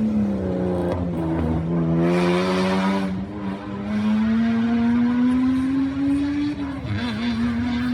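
Rally car engine working through a corner and accelerating away: the pitch dips and recovers in the first seconds, then climbs steadily for several seconds with a brief drop near the end. A short rushing hiss comes about two seconds in.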